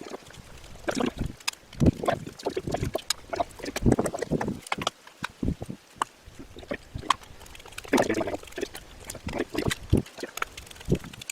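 Irregular clunks, clicks and scrapes of metal parts being handled and fitted during hub motor reassembly.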